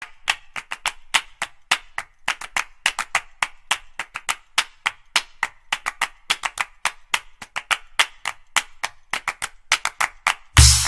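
Rapid, irregular sharp tapping clicks, several a second. Music with a heavy drum beat cuts in near the end.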